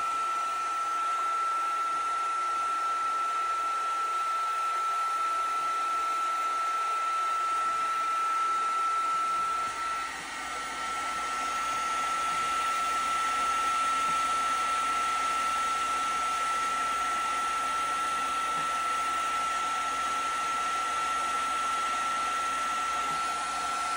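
Electric heat gun running steadily: a constant high fan-motor whine over a rush of hot air, heating a PEX A expansion sleeve to soften it so it can be cut off. Its whine starts to wind down at the very end.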